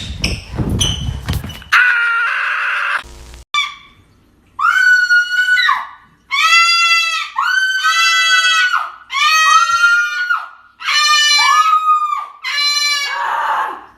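A bird giving a run of loud, harsh screams, each about a second long and repeated with short gaps, starting about four and a half seconds in.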